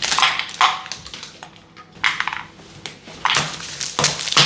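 Packaging of milk chocolate bars crinkling and rustling in several short bursts as the chocolate is handled for weighing.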